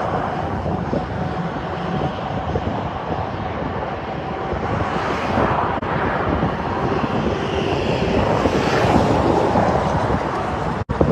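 Steady outdoor rushing noise with a low rumble, like wind buffeting the microphone, broken by two abrupt cuts: a brief one about halfway and a deeper one near the end.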